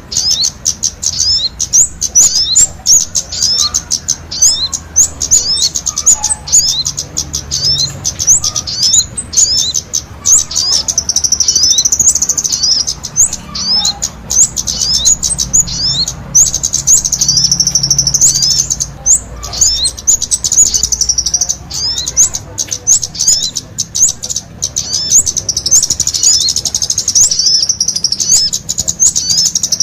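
Small songbirds, kemade and sogon, singing vigorously together: a dense string of quick, high sweeping chirps with longer high trills breaking in several times.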